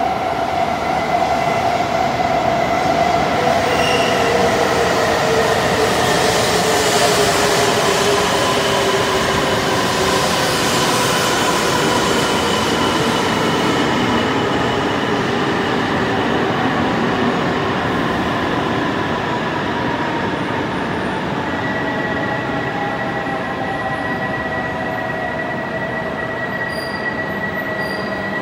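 E2 series Shinkansen train pulling into the platform and braking to a stop, its motor whine falling steadily in pitch as it slows. It is loudest as the cars pass, then settles into a steady hum once it has nearly stopped, with a few short high beeps near the end.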